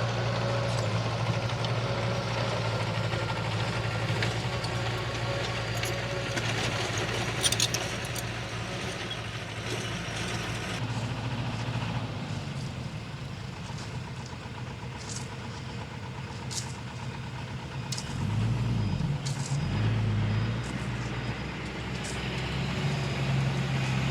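Heavy diesel engine of earth-moving machinery running steadily, easing off in the middle, then revving up and down a couple of times and running on at a higher pitch near the end. A short knock comes about seven and a half seconds in.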